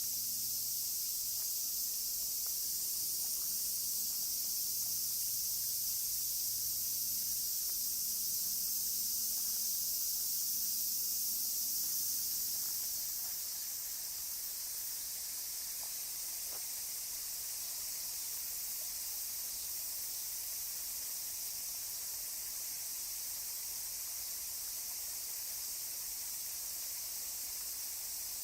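Dense chorus of Japanese summer cicadas: a steady, unbroken high-pitched shrill hiss, dropping slightly in level about halfway through.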